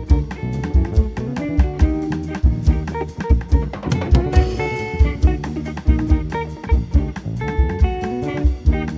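Live instrumental jazz from a small band: a drum kit keeps a steady beat under bass and guitar, with a cymbal wash about four seconds in.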